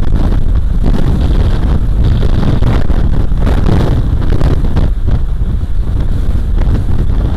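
Strong gale-force wind buffeting the camera's built-in microphone: a loud, steady low rumble with gusty swells.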